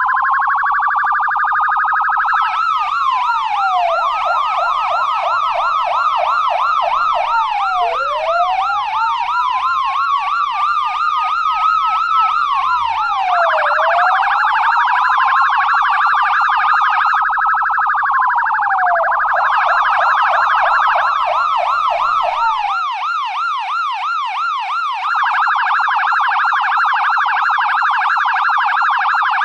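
US police car siren changing modes: slow wails that rise over several seconds and drop back, alternating with a fast yelp of quick repeated up-and-down sweeps and a very rapid warble.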